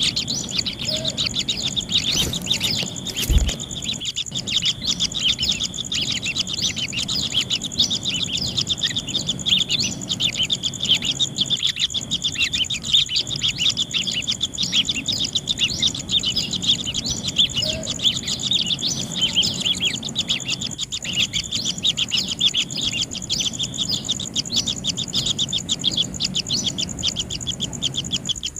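Kingfisher nestlings chirping continuously, a dense run of rapid high chirps over a steady high whine. There is one sharp thump about three seconds in.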